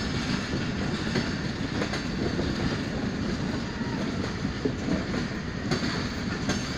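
Pakistan Railways passenger train coaches rolling past close by: a steady rumble of steel wheels on the rails with faint clicking over the rail joints.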